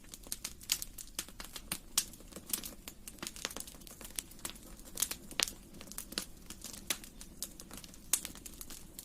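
Wood fire in a fireplace crackling: irregular sharp pops and snaps, several a second, over a low steady hiss of the flames.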